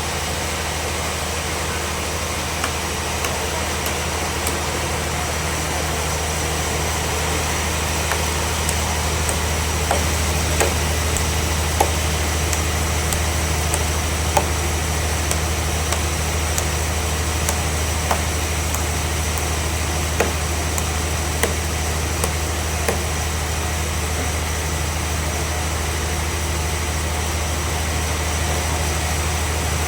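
Band sawmill machinery running steadily with a deep hum and a steady high whine. Sharp clicks come scattered through the middle of the stretch.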